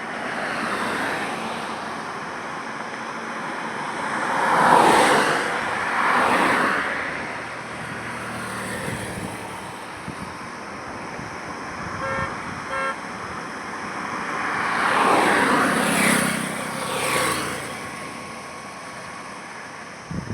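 Road traffic with vehicles passing one after another, each swelling and fading, the loudest about five seconds in and a cluster around fifteen to seventeen seconds. About twelve seconds in a vehicle horn gives two short beeps.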